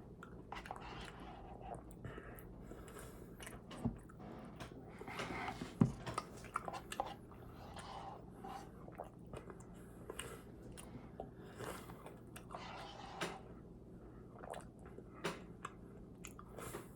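Close-up chewing of a Dairy Queen Frosted Animal Cookie Blizzard, soft ice cream with cookie pieces: quiet wet chewing with scattered small crunches and clicks.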